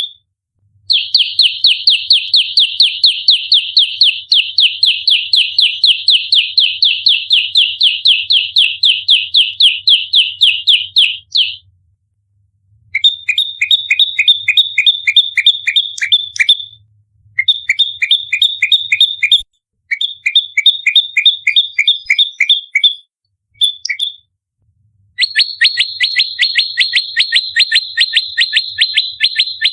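Prenjak lumut, a prinia, giving its agitated fighting song: rapid, dense strings of sharp high chirps at about five notes a second. A long run of about ten seconds comes first, then shorter runs with brief pauses between them, and a steady run again near the end.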